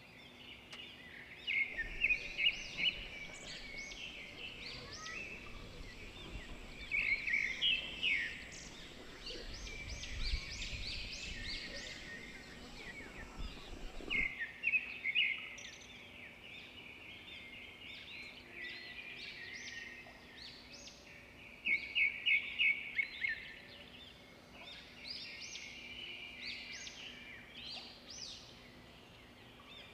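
Several wild songbirds chirping and singing together: a steady chorus of high chirps, with bursts of quick trilled notes several times.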